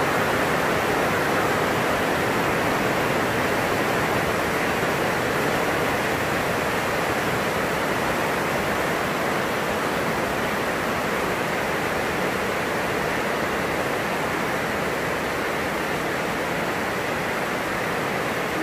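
Heavy rain falling on a plastic greenhouse roof: a loud, steady rush of rain noise with no letup.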